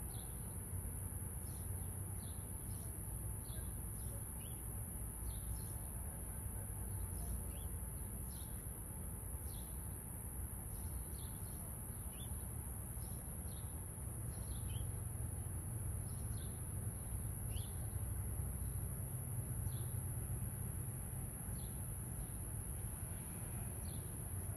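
Outdoor garden ambience: a bird's short high chirps, each falling in pitch, repeat irregularly about once a second over a steady high hiss and a low rumble.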